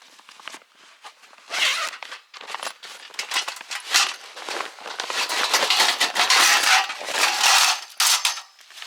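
Close rustling and crinkling of something being handled, in several bursts, the longest running from about five to nearly eight seconds in.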